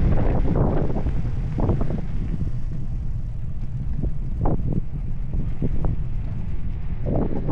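Wind buffeting the microphone as a loud, steady low rumble, with a few brief higher rustles.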